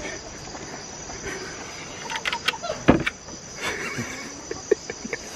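Crickets chirring steadily while a hen is handled in a coop: rustling, clicks and knocks against the coop's wooden boards and wire mesh, with one sharp knock about three seconds in.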